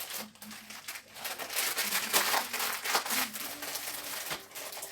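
Small plastic and paper food packets rustling and crinkling as they are handled, with scattered light clicks and knocks as they are set down.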